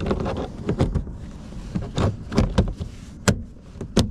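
Hard parts being handled and fitted back into a vehicle: an irregular run of knocks and rattles, with two sharp clunks near the end.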